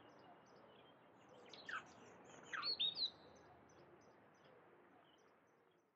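Songbirds singing over a soft outdoor hiss: a steady run of short, high chirps, with a few louder falling calls about two to three seconds in. The sound fades out at the end.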